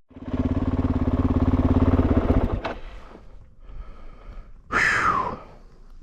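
Kove 450 Rally's single-cylinder engine idling with an even pulse, then shut off about two and a half seconds in. A short swishing noise follows a couple of seconds later.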